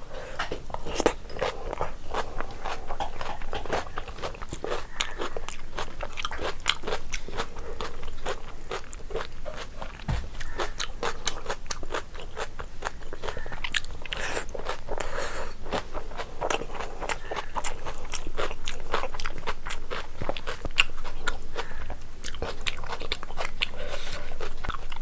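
A person eating biryani close to the microphone: steady chewing and biting, with many small crunches and sharp clicks.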